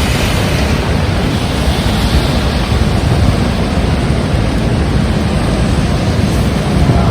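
Heavy rain and strong wind: a steady, dense rush of rain with gusts buffeting the microphone as a low rumble.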